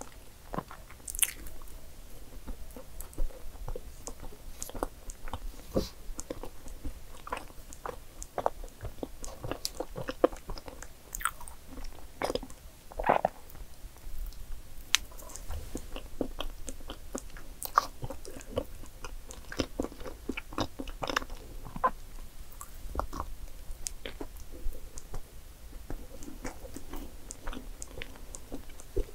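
Close-miked chewing and biting of soft dark chocolate cake, with many brief, irregular mouth clicks.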